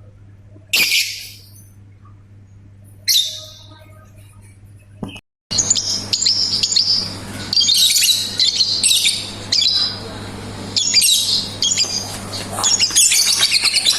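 Caged lovebird giving two short, sharp high calls, then, after a brief dropout, a long unbroken run of rapid, high chattering song.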